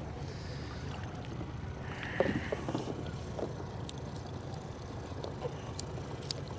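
Steady low rumble of a small fishing boat on the water, with a brief hissing burst about two seconds in and a few light clicks.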